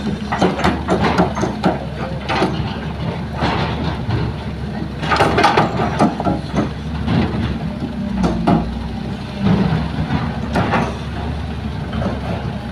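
Heavy diesel engine of earth-moving machinery running steadily, with irregular louder bursts of noise over it every second or two.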